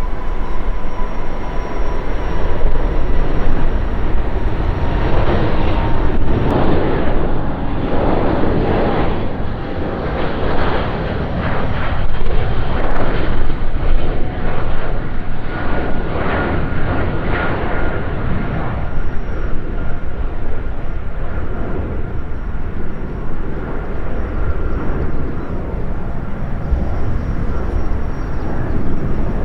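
Four jet engines of an Airbus A380 at takeoff thrust: a loud, steady rumble with a rough crackle strongest in the middle, and a faint thin whine above it.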